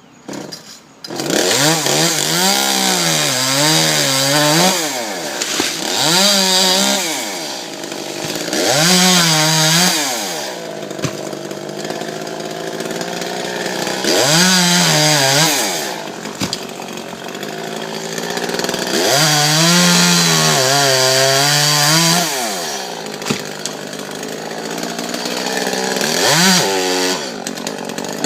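Two-stroke chainsaw engine coming in about a second in, then revving up and dropping back about six times, its pitch rising and falling with each throttle swell.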